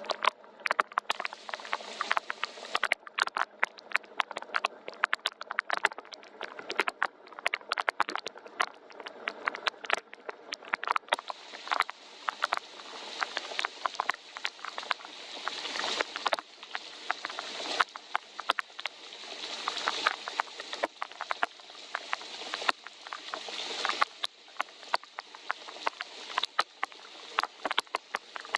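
Soft rain falling: a steady hiss with many sharp, irregular drop ticks, swelling and easing every few seconds.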